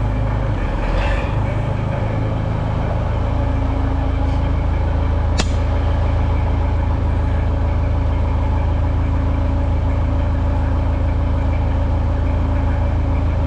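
Sawmill engine running steadily, its pitch shifting briefly about a second in, with a single sharp click about halfway through.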